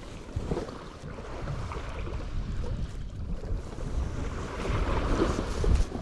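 Ocean waves washing onto the beach, with wind buffeting the microphone; a wave surges louder about five seconds in.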